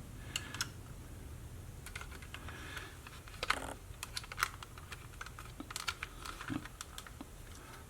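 Small, irregular clicks and taps of a Sony WM-B18 Walkman's plastic casing and battery contacts being handled and pressed into place during reassembly.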